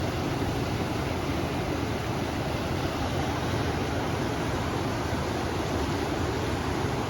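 River water rushing along with wind blowing over it, a steady, even rush with no distinct events.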